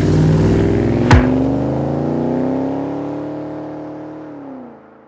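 Car engine note rising slowly in pitch, then falling away and fading out, with a sharp sweeping swish about a second in.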